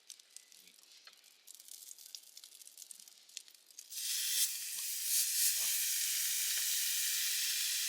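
Faint crackling, then about four seconds in a sudden loud, steady sizzle as a thick piece of meat is laid on a hot pan over the campfire stand.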